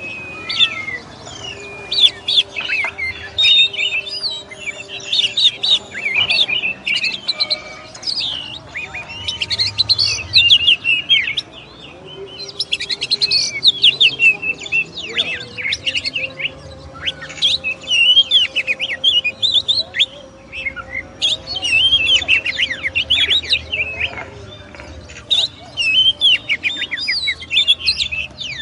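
Oriental magpie-robin (kacer) singing a loud, varied song of rapid whistles and chattering phrases, delivered in clusters with short pauses between them.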